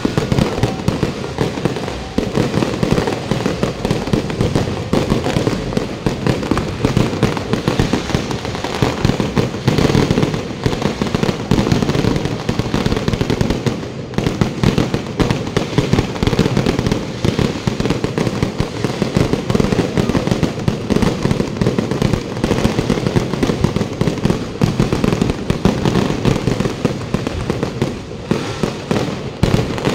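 Fireworks display in a dense, unbroken barrage: rapid overlapping bangs and crackles of aerial shells going off one after another.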